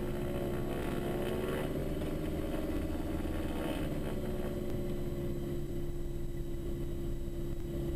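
Twin Austro AE300 turbo-diesel engines of a Diamond DA42 NG running at low taxi power: a steady drone with a strong hum, heard from the cockpit.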